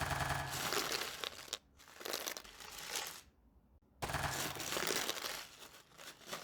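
Crackling, rustling noise in three stretches, broken by short quiet gaps, then cut off abruptly.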